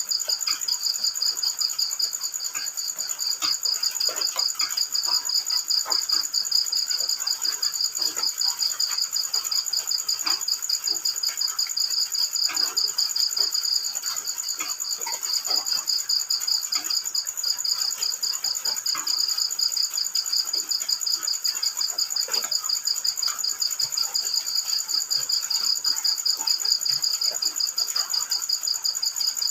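Crickets calling in a fast, continuous pulsing trill, with light drizzle pattering as scattered drops.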